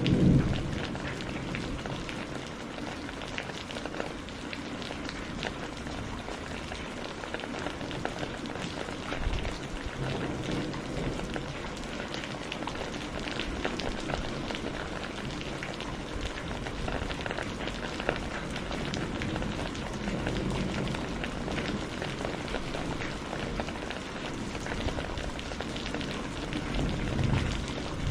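Steady rain with a dense patter of drops, and low rumbles of thunder rolling in and out: a louder one right at the start, weaker ones about ten and twenty seconds in, and another swell near the end.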